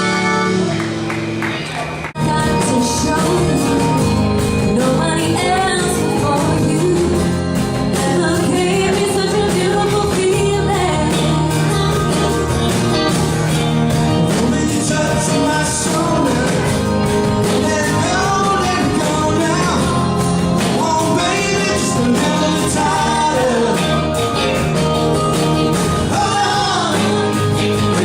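Live rock band playing a song with a singer. About two seconds in, a held chord cuts off abruptly and the full band and vocal come in.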